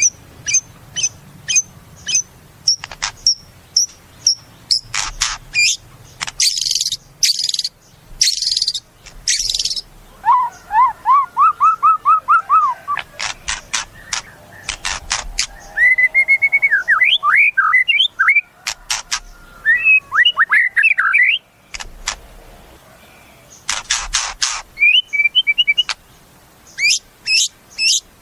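White-rumped shama (murai batu) singing a varied song: runs of sharp repeated chips, harsh buzzy rattles, and series of quick rising slurred notes, with short pauses between phrases.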